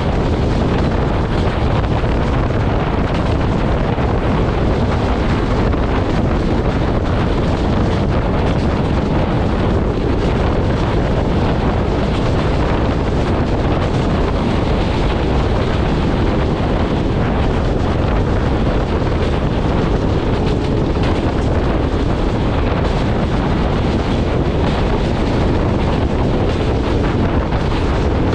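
Steady loud wind rush on the microphone from outside the window of an express passenger train running at high speed, over the low rumble of the coach running on the rails.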